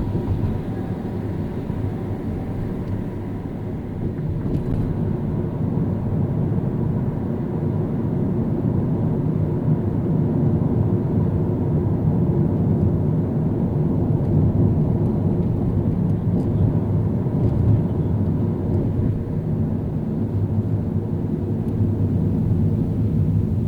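Car driving in city traffic: a steady low rumble of engine and tyre noise on the road, growing a little louder a few seconds in.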